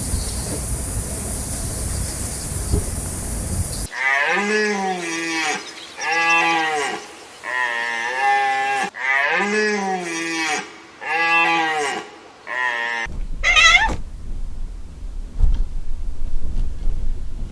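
An animal calling over and over: about six drawn-out calls, each rising and then falling in pitch, after a few seconds of steady high hiss. Low rumbling noise follows the calls near the end.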